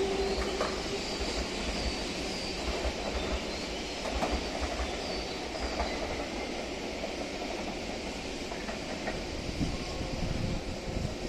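Electric train running on the tracks, its wheels clattering over the rail joints, with a faint high wheel squeal now and then.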